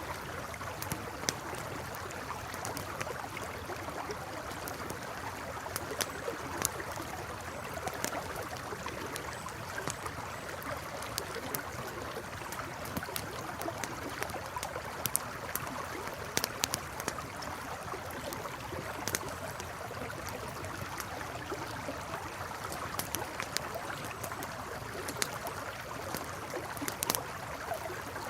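Campfire crackling, with sharp irregular pops and snaps over the steady rush of a flowing river.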